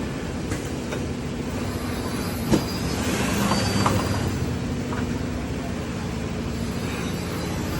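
Mattress-making machinery running with a steady drone, with a few sharp clicks or knocks, the loudest about two and a half seconds in.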